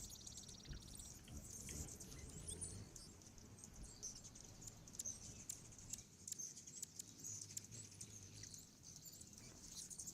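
Faint background of small birds chirping now and then, with scattered light clicks.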